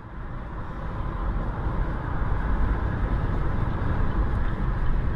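Road and engine noise of a moving vehicle: a steady low rumble with a hiss above it, building over the first two seconds and then holding steady.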